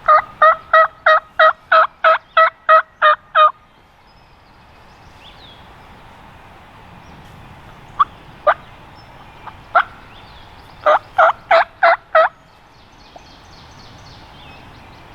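Turkey yelps: a loud, evenly paced run of about eleven notes, then a few single notes and a second shorter run of about six notes near the end.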